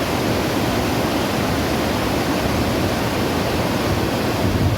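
Steady, loud rush of river water cascading over rocks at a waterfall: an even noise with no breaks.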